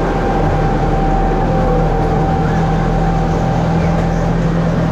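Miniature passenger train running, heard from aboard: a steady low drone and rumble, with a thin high whine that fades near the end.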